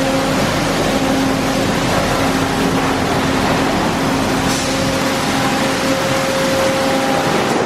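Automatic tunnel car wash equipment running: a steady hiss of spraying water over a constant machine hum.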